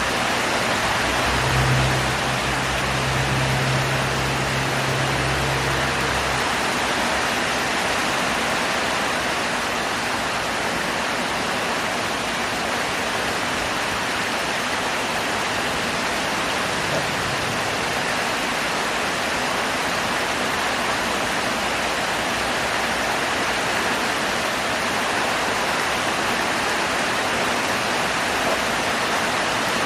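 Heavy rain pouring steadily, a dense even hiss. A low hum runs underneath for the first six seconds or so, then fades.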